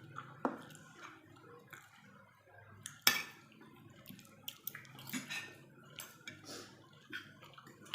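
Cutlery clinking and scraping against a plate during eating, in scattered short clicks, with one sharp clink about three seconds in the loudest.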